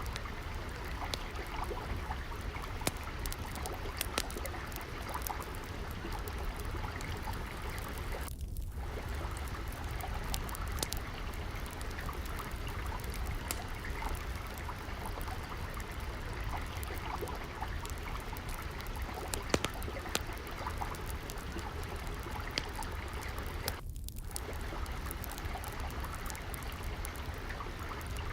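Gently flowing, trickling water, running steadily, with frequent small crackles and pops from a wood fire scattered over it.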